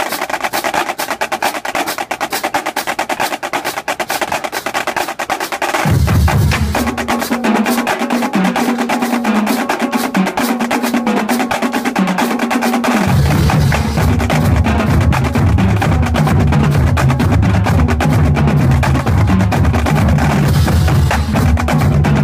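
Marching drumline playing a fast cadence of rapid snare strokes and rolls. Low-pitched bass drums come in about six seconds in and play heavily from about thirteen seconds on.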